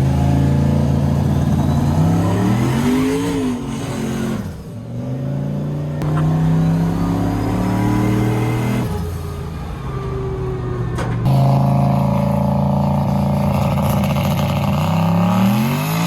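Turbocharged LS V8 truck engine accelerating and revving, its pitch climbing and dropping several times. It rises sharply twice, about three seconds in and again near the end, with a lull before it comes back on hard about eleven seconds in.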